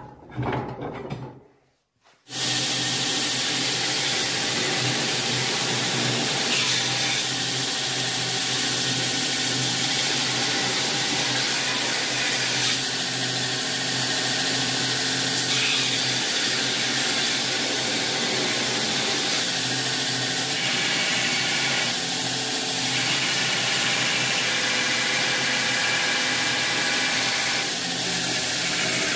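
A machine running steadily, a constant whirring drone over a hiss, starting after a brief near-silent gap about two seconds in.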